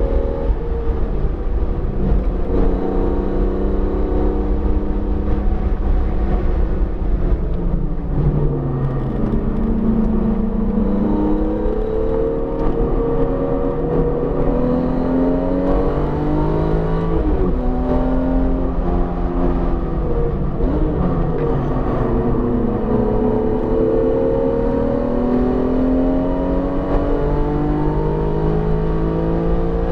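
BMW E46 M3's S54 straight-six, freshly rebuilt and still being broken in, running hard on track: the engine note climbs as it accelerates and drops back at shifts and lifts, again and again, over a steady low rumble of road noise.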